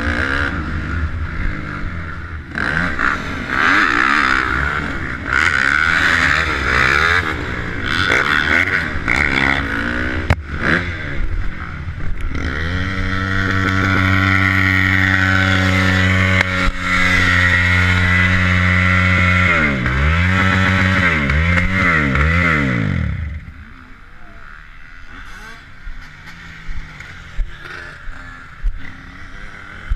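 Motorcycle engine running hard, its pitch repeatedly climbing and falling through gear changes. About three quarters of the way through the pitch sweeps down and the engine drops suddenly to a much quieter sound, as if closing the throttle and slowing.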